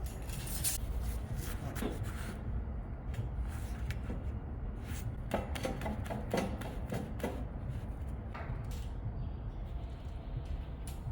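Irregular knocks and clicks of steel being handled and fitted during fabrication, some coming in quick clusters, over a low workshop rumble.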